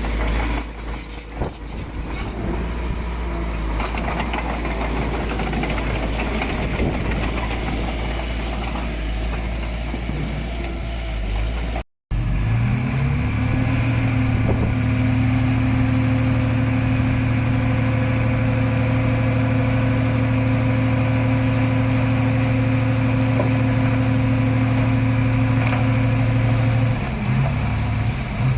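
Diesel engines of earthmoving machinery working: a rough, noisy rumble, then after an abrupt cut a steady, even engine drone that shifts near the end.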